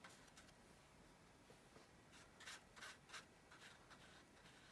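Near silence with a few faint, short strokes of a paintbrush on paper.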